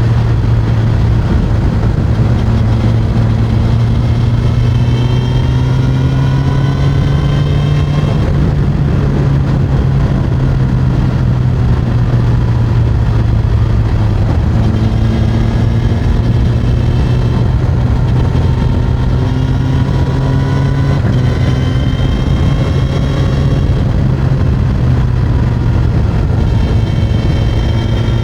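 Suzuki GSX-S1000's inline-four engine through its stock exhaust, heard from the seat while riding. It makes a steady drone whose pitch climbs slowly and drops back a few times.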